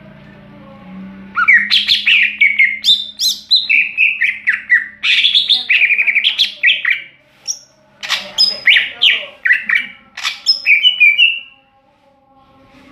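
Cucak ijo (green leafbird) singing loudly in a long run of rapid, varied whistled and chirping phrases with quick rising and falling notes, then falling silent near the end.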